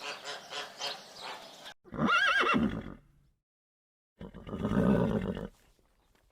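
A horse whinnying: a short, quavering high call about two seconds in, then a lower, longer call about four seconds in.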